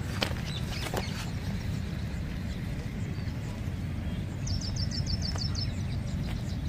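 Outdoor ambience with a steady low rumble, a couple of sharp clicks near the start, and a small bird giving a quick trill of about ten high chirps in a second, about four and a half seconds in.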